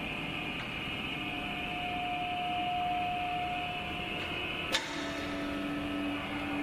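Automatic webbing strap cutting and sewing machine running with a steady whine of several held tones. There is one sharp click nearly five seconds in, after which a lower hum joins.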